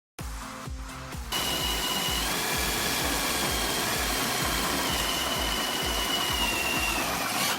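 A power tool starts about a second in and runs steadily with a high whine, its pitch sagging slightly near the end before it stops. It is heard over background music with a steady beat.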